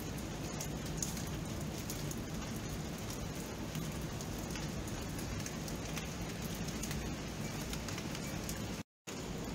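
Steady rain: an even hiss with scattered drops ticking on surfaces. The sound cuts out completely for a split second near the end.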